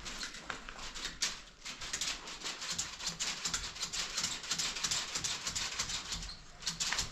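Rapid, irregular scraping or tapping: a quick run of small clicks, several a second.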